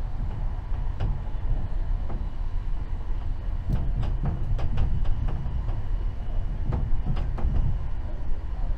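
Passenger train running along the track, heard from inside the carriage: a steady low rumble of wheels on rails with irregular clicks and knocks.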